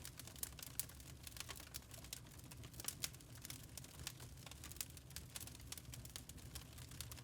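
Wood fire crackling in a fireplace: dense, irregular crackles and small pops, a sharper pop about three seconds in, over a low steady rumble.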